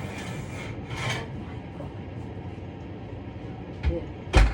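Kitchen handling of dishes and utensils: a brief clatter about a second in, then a light knock and a heavier thump near the end as something is set down.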